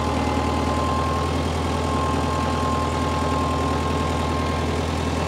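Tractor engine idling steadily, a constant low drone with a thin steady whine above it.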